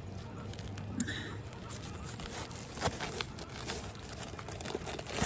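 New asphalt roof shingle being slid up into place under the overlapping course, a scraping, rustling sound with a few sharp clicks.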